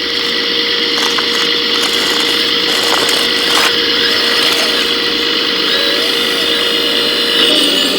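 1:14-scale RC construction machines running, with a steady whine of electric motors and hydraulic pumps, a couple of sharp clicks near the middle, and one motor tone stepping up in pitch near the end.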